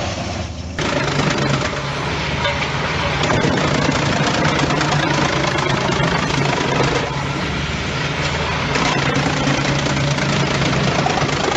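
Morbark drum chipper running under load: a steady engine hum under dense crunching and crackling as the drum chews up logs, starting abruptly about a second in.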